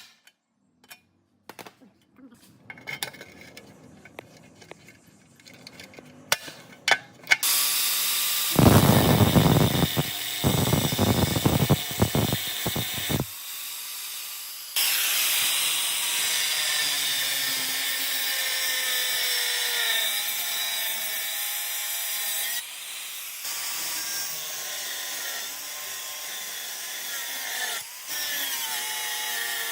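Handheld power tool working on rusty metal, its pitch wavering as the load changes. It comes after a few seconds of light taps and handling noise, has a heavy rumbling stretch at first, and stops briefly twice.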